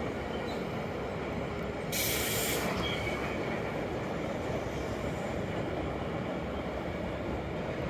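Freight train of double-deck car-carrier wagons rolling past, a steady rumble of wheels on rails, with a short, loud high-pitched screech about two seconds in.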